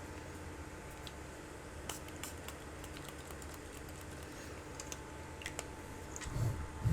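Faint scattered light clicks and taps of small items being handled while a circuit board is cleaned at a workbench, over a steady electrical hum.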